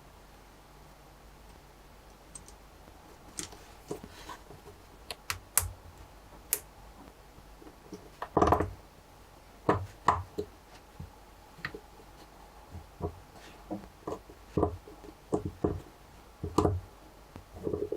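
Lego Technic pieces clicking and knocking as they are handled and pressed together by hand, in irregular single clicks with a few louder snaps.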